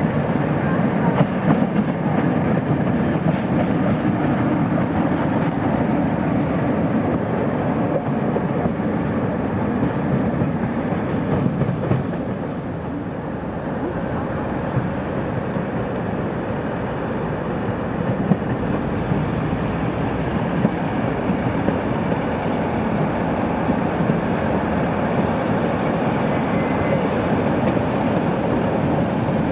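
A diesel-era train running by on the line: a continuous rumble with frequent short clicks, dipping in level briefly about twelve seconds in.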